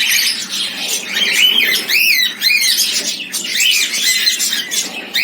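Cockatiels calling: a steady run of loud, shrill calls, each rising and falling in pitch, repeating and overlapping with one another.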